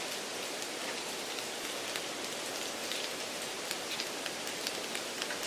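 Steady rain: an even hiss with scattered small drop ticks, laid in as background noise under a listening-test track to mimic poor exam-room conditions.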